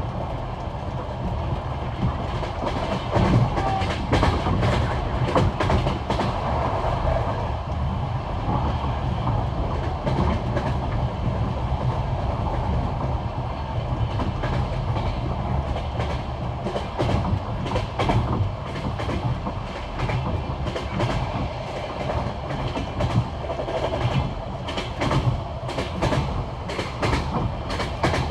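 Passenger train wheels clattering over the rail joints of old jointed (non-welded) track at speed, heard from inside the carriage: a steady low rumble with repeated clusters of sharp clicks, the classic clickety-clack.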